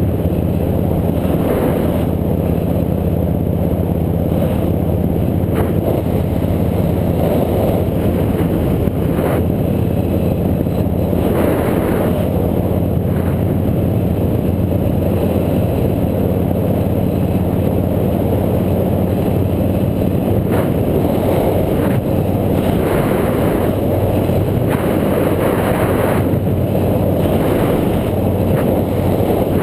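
A motorbike's engine running at a steady pace, a constant low hum under road and wind noise, with occasional short knocks.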